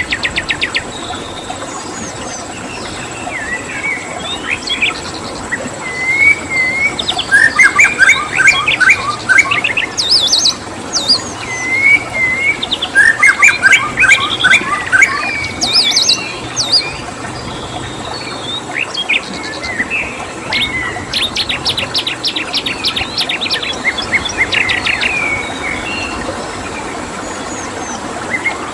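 Several songbirds chirping, whistling and trilling in repeated bursts, some as fast ticking trills, over a steady rush of flowing stream water.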